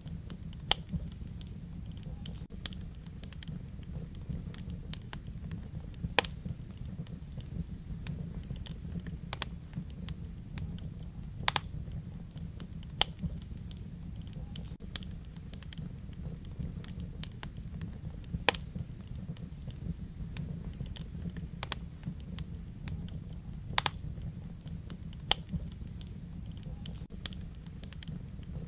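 Wood fire burning in a fireplace: a steady low rumble of flames with irregular sharp crackles and pops, a few of them much louder than the rest.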